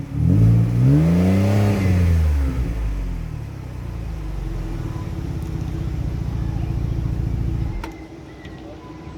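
Ford Explorer engine heard through a new MagnaFlow exhaust with the resonator still in place: one rev that rises and falls, then it settles into a steady idle. The sound drops away suddenly near the end.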